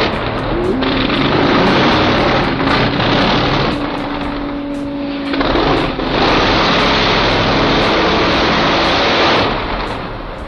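Shell-Camino monster truck's engine, rated at 1600 horsepower, running at high revs, loud and distorted. It eases off briefly about four seconds in and again near the end.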